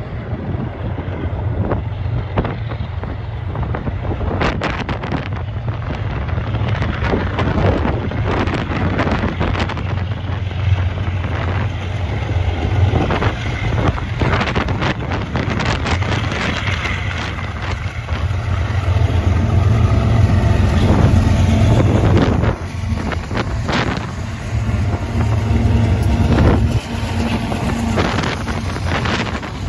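Freight trains passing: a steady rumble with irregular clatter of steel wheels on the rails. The deep drone of the diesel locomotives grows louder past the middle as they go by. Wind buffets the microphone.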